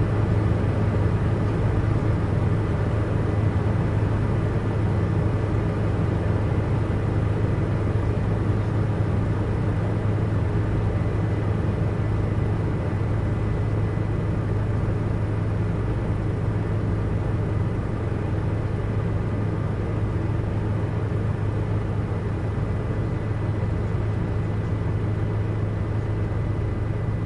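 Helicopter cabin noise in steady flight: a continuous deep drone of engine and rotor with a faint steady high whine over it, unchanging throughout.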